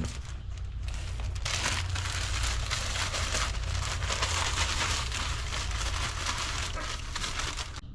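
Cooking oil crackling and sizzling in a pan, a steady dense crackle that cuts off suddenly near the end.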